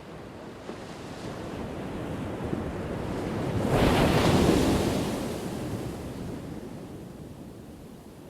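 Ocean waves breaking on a shore: one wave swells to a crash about four seconds in, then washes out and fades.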